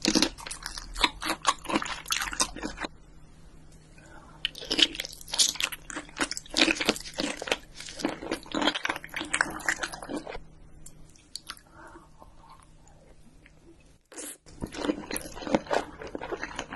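Close-miked eating: crisp seaweed crunching and chewing in bursts of sharp crackles, with a softer stretch of chewing and a brief dropout about fourteen seconds in.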